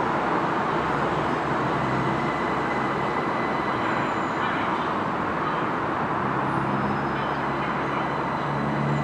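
Steady running noise of a train in motion heard from inside the carriage, with a faint constant whine; a low hum comes in about two-thirds of the way through.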